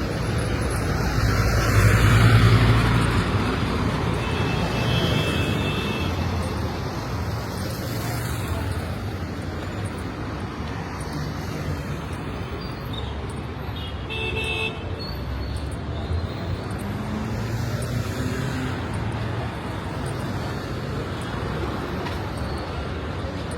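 Road traffic with vehicles passing continuously; one passes loudly about two seconds in. Vehicle horns toot briefly twice, around five and fourteen seconds in.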